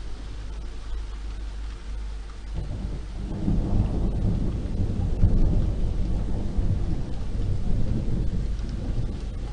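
Thunder rumbling over steady rain. The rumble swells about a quarter of the way in, stays loudest through the middle and eases off toward the end.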